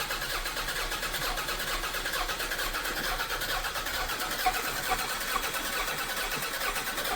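A 1991 Toyota MR2's engine cranking on its starter in a first start attempt after sitting four years, a steady fast rhythmic churn.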